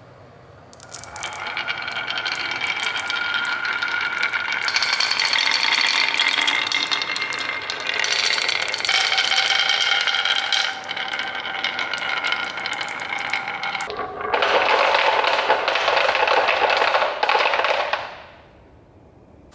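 Marbles clattering and rolling along a toy marble run: a dense stream of small clicks with ringing tones, starting about a second in. Near the end comes a few seconds of louder, rougher rolling that then stops.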